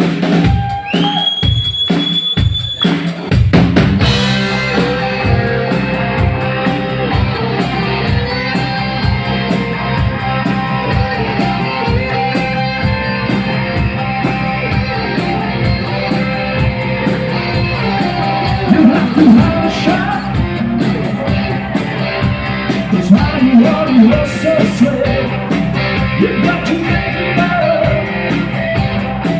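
Rock band playing live: drum kit and electric guitar, with the full band coming in about four seconds in after a few opening hits and a held high tone.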